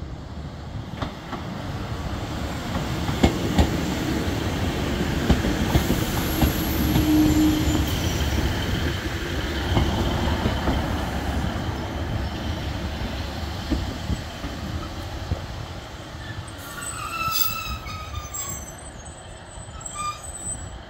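Class 150 Sprinter diesel multiple unit passing over the level crossing, loudest a few seconds in, its diesel engines running and its wheels knocking over the track. Near the end its brakes squeal with a falling pitch as it slows to a stop at the station platform.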